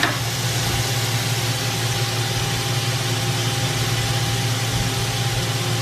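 Chicken pieces frying in a stainless steel pan, a steady sizzle over a constant low hum.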